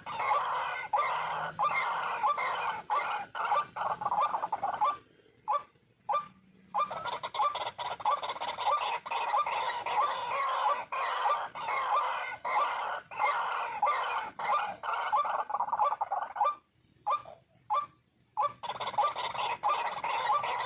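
White-breasted waterhens calling: a dense, fast run of repeated calls that breaks off twice for about two seconds each.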